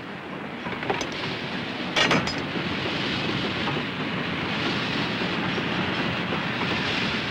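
Freight train rolling past, its wheels clacking over rail joints. The noise builds over the first couple of seconds, with a louder clatter about two seconds in, then holds as steady rolling noise.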